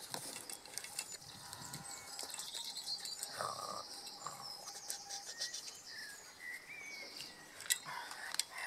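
Small birds chirping and singing: many short high chirps and a few brief whistled glides, broken by a few sharp clicks, the loudest near the end.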